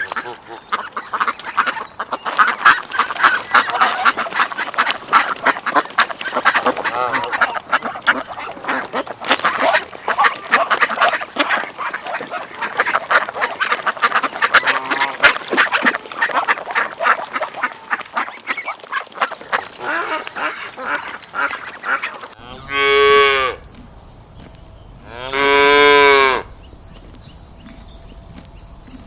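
A large flock of waterfowl calling rapidly over one another in a dense, continuous chatter of honks. About three-quarters of the way in it cuts to a cow mooing twice in long, drawn-out calls.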